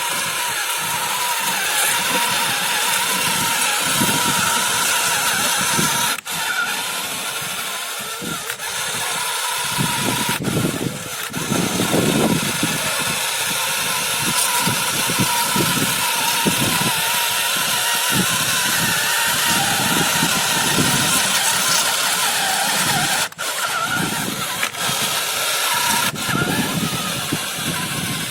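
John Deere tractor's diesel engine running steadily, with two brief dropouts about a fifth of the way in and again near the end.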